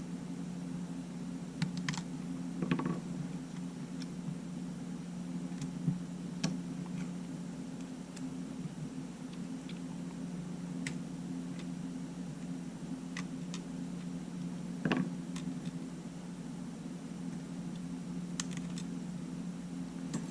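Sparse light clicks and taps of small parts being handled on a disassembled camera, over a steady low hum.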